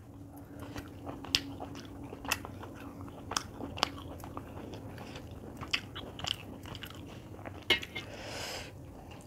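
Close-up chewing and mouth sounds of a person eating chicken curry and rice by hand, with many sharp wet clicks scattered through. A brief soft hiss comes about eight seconds in.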